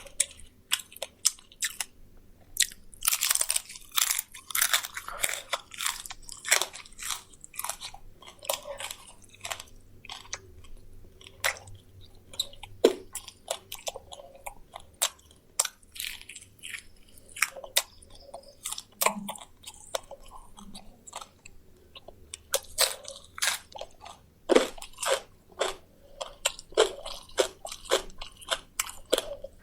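Close-miked chewing of fried quail: many irregular sharp crunches as teeth break through the crisp skin and small bones, with quieter wet chewing in between.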